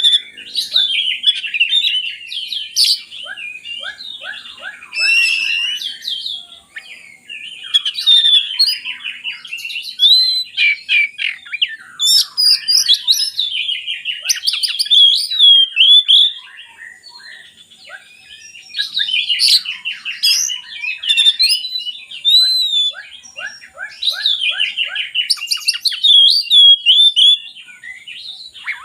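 Oriental magpie-robin (kacer) singing a loud, varied song: phrase after phrase of whistled glides and fast rattling trills, with short pauses between phrases and one longer pause partway through.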